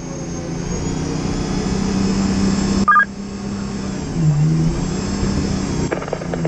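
Fire engine's diesel engine running and getting louder as the rig gets under way, with a short two-tone electronic beep about three seconds in.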